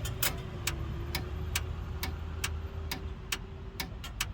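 Regular ticking, about two sharp clicks a second, over a low steady hum.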